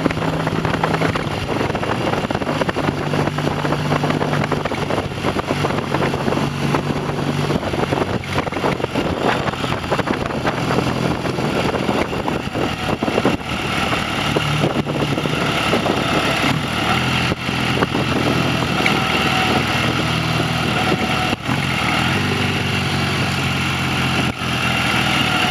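Classic motorcycle engine running on the road, heard over wind and road noise, its note stepping up and down several times as the speed changes.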